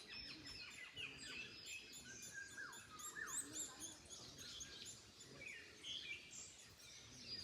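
Several small birds chirping and twittering, many quick overlapping notes, over a soft rustle of wind in the trees.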